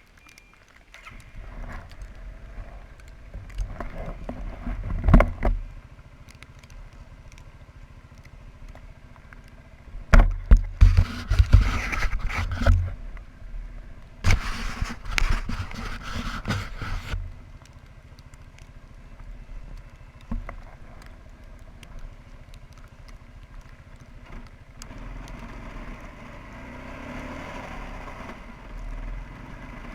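Quadrunner 300 ATV engine running steadily at idle, warming up after a cold start. Several loud, noisy bursts lasting a few seconds each come over it, the biggest about ten and fourteen seconds in.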